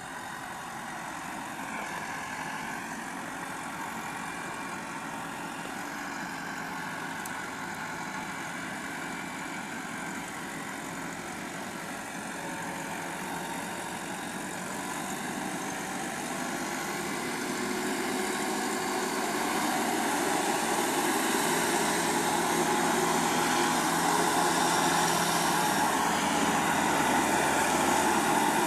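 A tractor's diesel engine running steadily, growing louder about two-thirds of the way through and staying loud.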